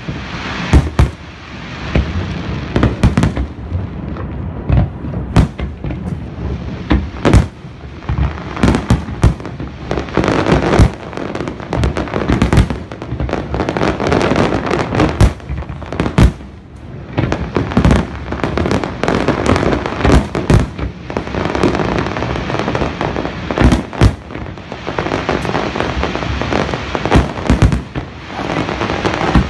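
Aerial firework shells bursting one after another with sharp bangs, and long spells of dense rapid crackling in between.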